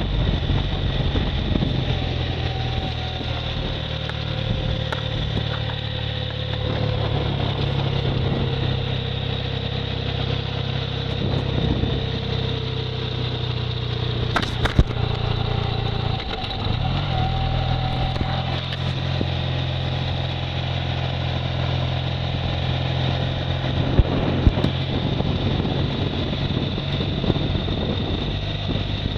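Motorcycle engine running steadily on the road, with a brief drop in the engine sound about halfway through and a few sharp clicks.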